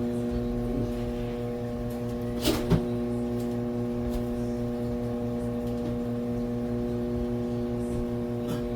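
Steady electrical hum of a running kitchen appliance, with a regular low throb underneath. Two quick knocks come about two and a half seconds in.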